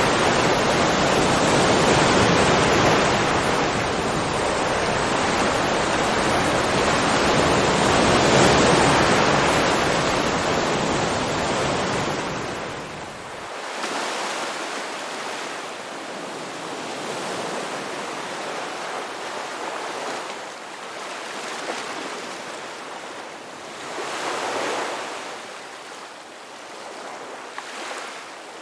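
Ocean waves on a shore: a dense, steady rush of surf for the first half, then, about halfway through, a thinner, quieter wash in which single waves swell and fall back every few seconds.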